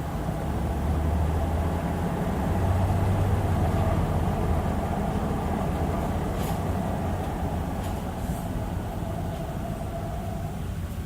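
2006 Hyundai Aerocity 540 city bus running under way: the engine rumbles steadily, with a steady mid-pitched tone over it that stops about ten seconds in. A few brief hisses come in the second half.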